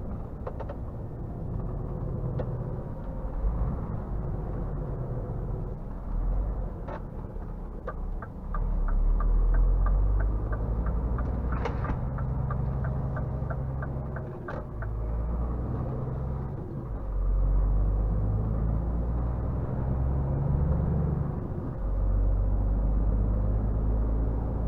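Scania R450 truck's 13-litre six-cylinder diesel running low and steady under way, swelling several times as it pulls. Midway a regular ticking, about three a second, runs for some six seconds, typical of the turn-signal indicator, with a few single sharp clicks scattered through.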